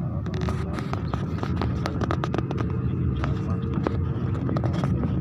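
Low, steady rumble of a Rolls-Royce jet engine on an airliner, with a scatter of sharp clicks and rattles over it.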